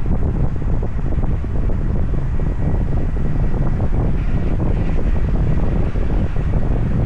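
Wind buffeting the microphone of a moving car, a loud, steady low rumble that flutters constantly, with the car's road noise beneath it.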